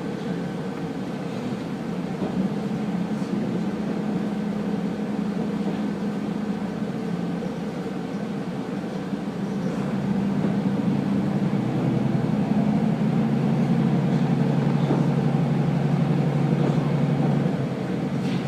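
Diesel railcar engine running with a steady, pitched hum that shifts in pitch, growing louder about ten seconds in and easing off shortly before the end.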